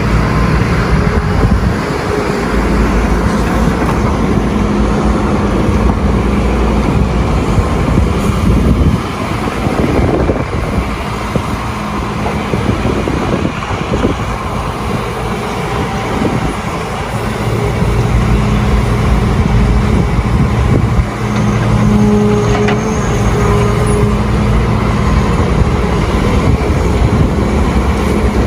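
Doosan DX300 excavator's diesel engine running steadily. Its note eases for several seconds about a third of the way in, then comes back stronger for the rest.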